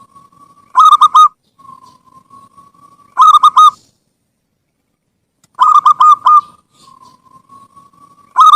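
Zebra dove (perkutut) singing: phrases of three or four short, loud cooing notes repeat every two to three seconds. Three full phrases are heard, a fourth begins near the end, and a soft, level, held note runs between them.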